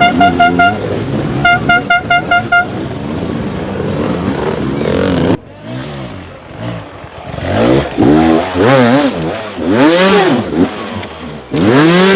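A horn toots in quick pulses, about six a second, for the first couple of seconds. After a sudden cut about five seconds in, a dirt bike's engine revs up and down again and again as the throttle is worked.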